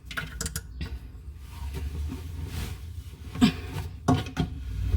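Scattered clunks and taps of hands and faucet parts knocking against the sink cabinet and pipes, over a steady low rumble.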